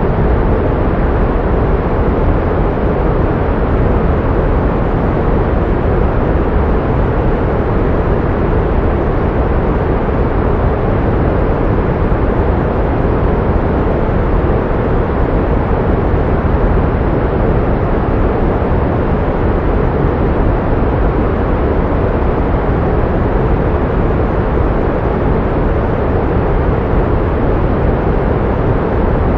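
Pink noise: a steady, unchanging hiss, softer and deeper than white noise.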